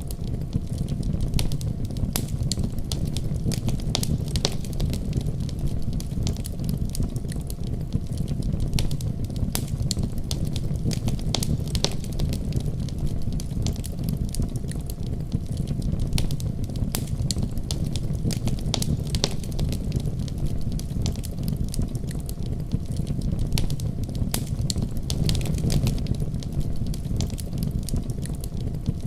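Wood fire crackling in a fireplace, with many small sharp pops scattered throughout, over a steady low rumble of a winter storm.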